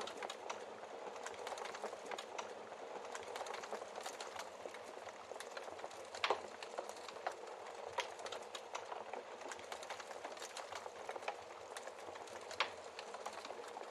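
Wood fire crackling: a steady bed of small crackles with frequent sharp clicks and a few louder pops, the loudest about six seconds in, others about eight seconds in and near the end.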